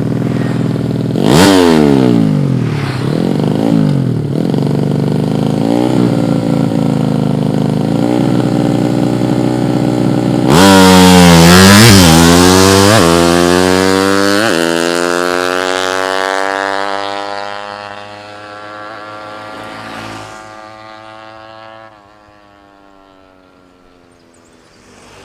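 Racing motorcycle engine with a loud exhaust revved in short blips, then pulling one long high-revving run from about ten seconds in that holds, slowly drops in pitch and fades away over the last few seconds.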